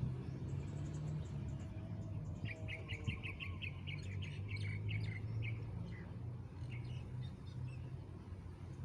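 A small bird chirping, with a quick run of about a dozen short high chirps in the middle and scattered single chirps around it, over a steady low engine hum.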